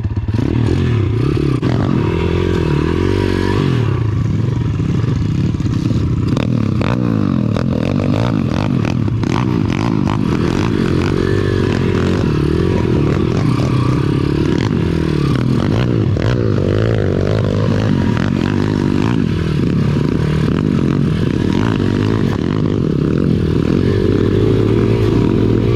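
Pit bike's small single-cylinder engine being ridden over rough trail, its revs rising and falling with the throttle, mixed with frequent clatter and scraping from the bike over rocks and dirt.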